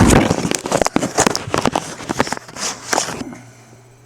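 Close rustling, scraping and knocking, loud for about three seconds and then stopping, leaving a faint steady low hum.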